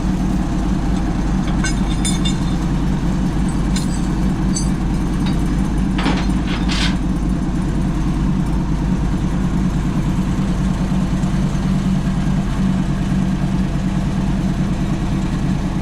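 A vehicle engine idling steadily, with a brief scrape or clatter about six seconds in.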